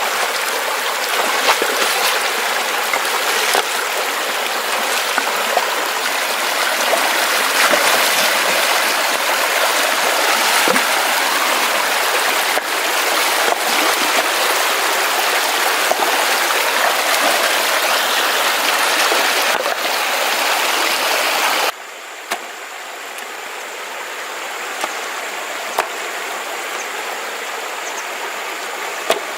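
Mountain stream water rushing steadily. The flow drops suddenly to a quieter level about three-quarters of the way through, with a few faint clicks over it.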